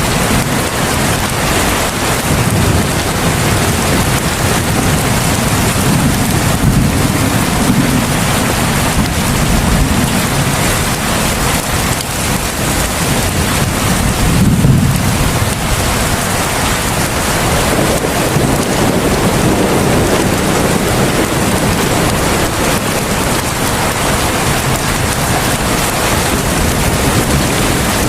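Heavy rain pouring steadily, with low rumbles of thunder swelling and fading beneath it, the strongest about halfway through.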